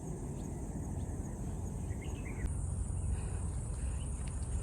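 Steady high-pitched chorus of insects, growing a little louder about halfway through, over a low rumbling noise.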